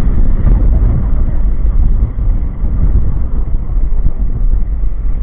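Steady road and wind noise from a moving motorcycle, dominated by a heavy low rumble of wind buffeting the microphone.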